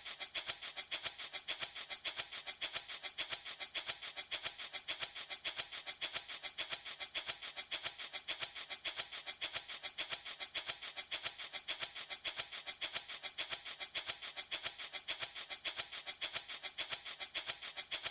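Handmade wooden baby rattle shaken in a quick, even rhythm, a continuous bright rattle of beads against wood.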